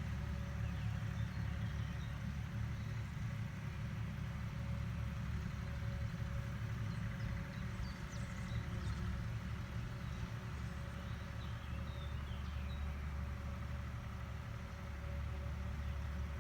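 Agricultural machine's engine running steadily, a continuous low rumble with a steady hum above it.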